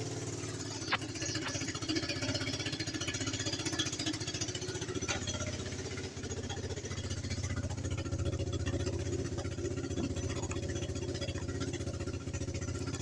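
Quad bike (four-wheel motorbike) engine idling steadily, started on its freshly recharged battery. There is a single short click about a second in.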